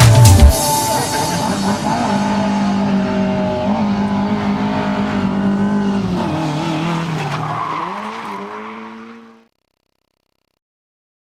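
Car engine running at steady high revs under tyre noise, typical of hard driving on a track. Its pitch drops and climbs again about two-thirds of the way in, then the sound fades out and cuts to silence. The backing music stops about half a second in.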